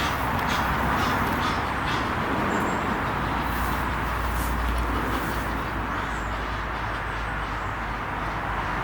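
Egyptian geese giving harsh, honking calls, in short bouts through the first half. Under them runs a steady rushing noise with a low rumble that swells in the middle.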